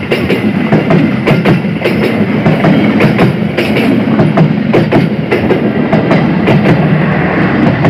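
Executive-class passenger coaches of an Indonesian KAI express train passing close by at speed: a loud, steady rumble of wheels on rail, with rapid, irregular clacks as the wheels run over rail joints.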